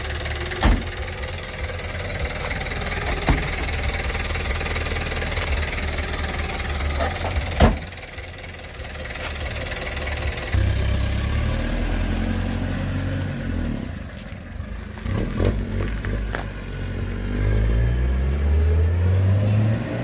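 A vehicle engine running, its pitch rising and falling as it revs in the last few seconds, with two sharp knocks in the first half.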